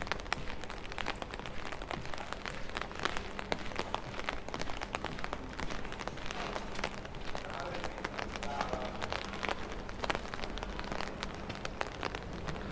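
Rain falling steadily, with many sharp ticks of drops striking close by.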